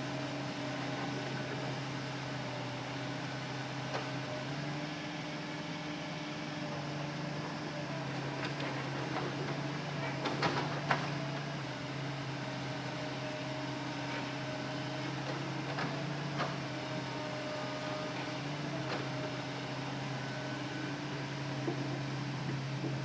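Hitachi Zaxis excavator's diesel engine running at a steady speed, with a few sharp knocks, the loudest two about ten seconds in.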